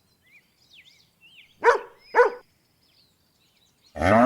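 Two short dog barks about half a second apart, with birds chirping faintly. Near the end a cow begins a long moo.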